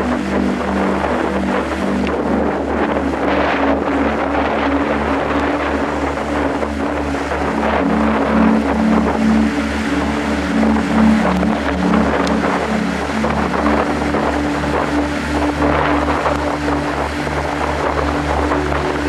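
Strong wind blowing and buffeting the microphone, over a steady low hum.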